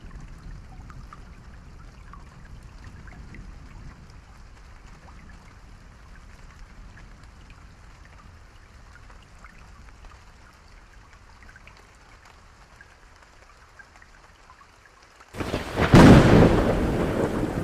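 Steady light rain with scattered individual drops, then, about fifteen seconds in, a sudden loud clap of thunder that keeps rumbling as it slowly fades.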